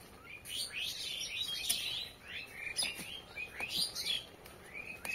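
Small birds chirping busily, many short falling chirps overlapping one another. About three and four seconds in, a metal spatula knocks twice against the wok.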